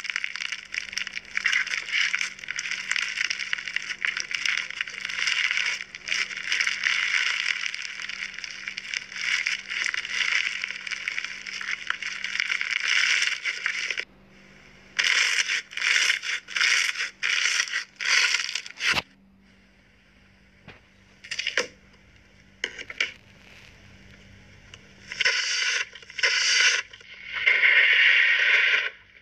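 Hand-played slime squished and pressed with dense, continuous crackling and popping for about fourteen seconds, then a run of short separate squishes with pauses between, a longer squish near the end.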